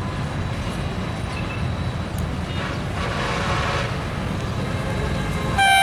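Steady low rumble, then a locomotive horn starts blowing loudly near the end.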